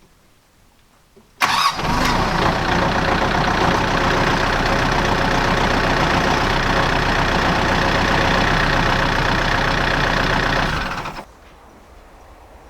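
A corded power tool's electric motor starts suddenly, runs steadily for about nine seconds and winds down quickly.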